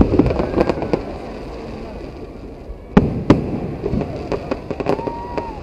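Aerial fireworks shells bursting in a series of sharp bangs: a quick cluster at the start, two heavy reports about three seconds in, then a run of smaller pops near the end.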